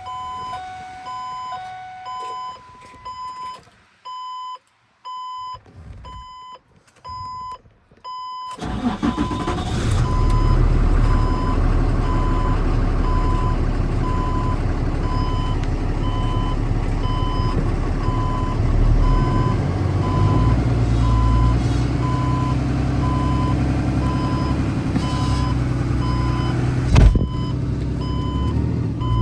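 A 2013 Ford F650 medium-duty truck's engine starts about eight seconds in and then runs steadily at idle. A repeating warning beep sounds throughout, and there is one sharp knock near the end.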